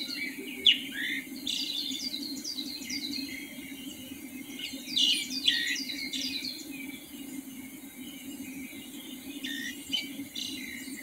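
Wild birds singing in an early-morning chorus: runs of quick, high, falling chirps from several birds, over a steady low hum.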